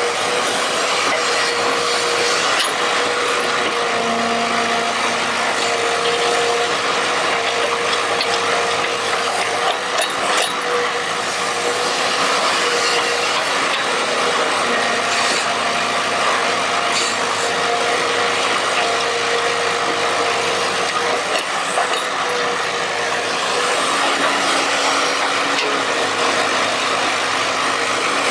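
Radio-controlled excavator digging: the steady whir of its small electric drive motors, with whining tones that come and go and change pitch as different motions start and stop, over a continuous scraping, grinding noise.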